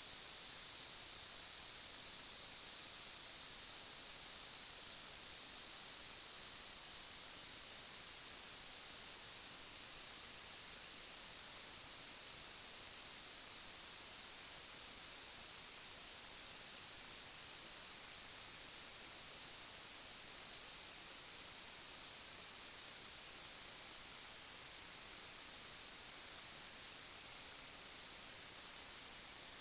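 A steady, high-pitched whine that creeps slowly upward in pitch, over a faint hiss.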